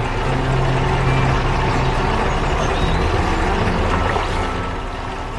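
Heavy vehicle engine running steadily, a low rumbling hum with mechanical noise, easing off slightly near the end.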